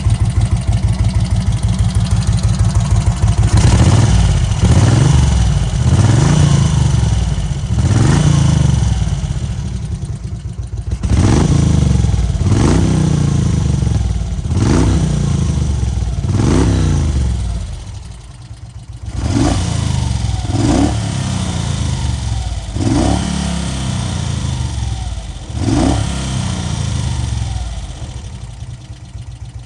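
1991 Magni Sfida 1000's Moto Guzzi V-twin engine idling, then revved in a series of throttle blips, each rising and falling back, followed by several shorter, sharper blips before it settles back to a steady idle.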